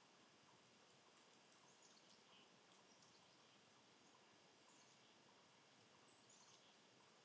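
Near silence: faint steady hiss with a few faint, short bird chirps, a cluster about two seconds in and another near the end.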